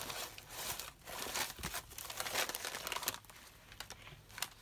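Crafting papers rustling and crinkling as they are handled and shifted about on a desk, in irregular bursts with a few light clicks.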